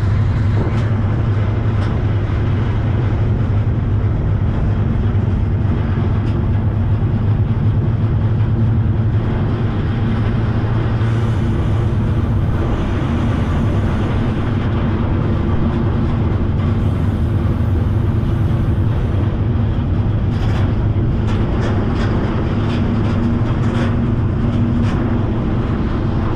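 Freight train running, heard from aboard a car: a loud, steady low rumble of wheels on rail. A faint high hiss comes in twice in the middle, and a run of clicks and knocks sets in over the last several seconds.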